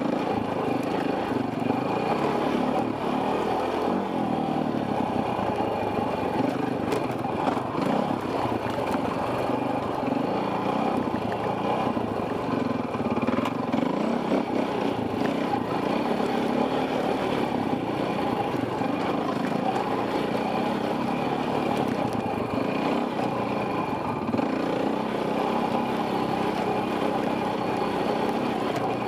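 Enduro dirt bike engine running under way on the trail, heard from a helmet camera, its pitch wavering up and down as the throttle is worked.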